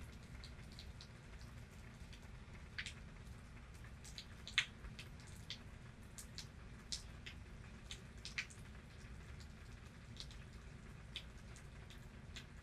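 Raindrops falling and dripping in a storm: scattered, irregular taps, the loudest about four and a half seconds in, over a faint steady low rumble.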